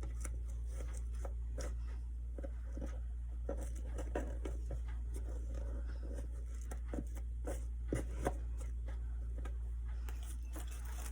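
Scattered small clicks, taps and rustles of craft materials being handled on a work surface, over a steady low hum.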